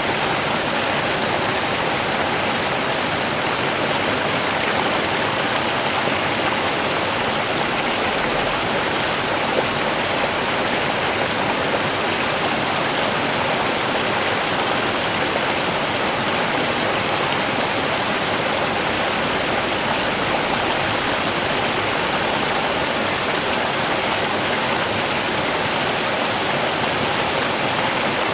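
River water flowing, a steady, even rush with no change in the flow.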